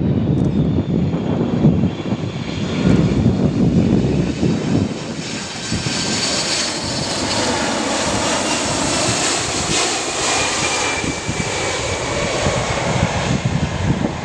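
Boeing 767-200ER jet engines passing: a heavy rumble for the first few seconds gives way to a loud rushing whine with high tones that slowly fall in pitch.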